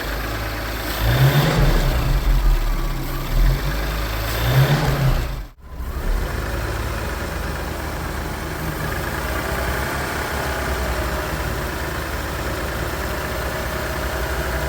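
Healthy Audi EA839 3.0-litre turbocharged V6 revved up twice in short blips, then, after a brief break, an engine idling steadily.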